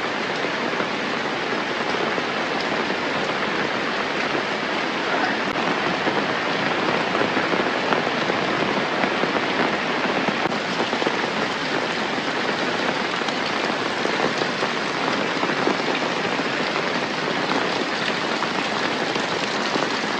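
Steady rain falling, a dense, even patter of many fine drops hitting surfaces.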